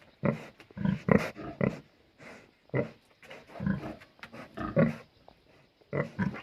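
Large pig grunting repeatedly, a steady run of short, irregular grunts.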